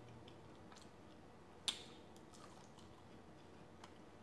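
Faint close-miked chewing with the mouth closed: small wet mouth clicks, with one sharper click about a second and a half in.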